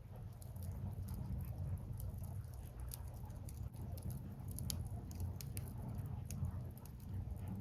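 Burning firewood in a bonfire crackling, with irregular sharp pops and snaps over a steady low rumble.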